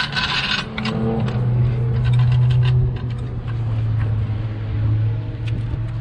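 A car engine running steadily at one low, even pitch, with scattered light clicks and taps over it; a higher hissing noise stops just under a second in.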